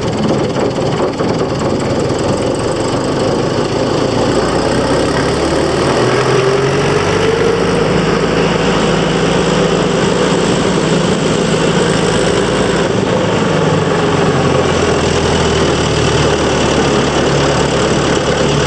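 Hanomag R28 tractor's diesel engine running steadily, its speed rising a little about a third of the way in and settling back down about two thirds of the way through.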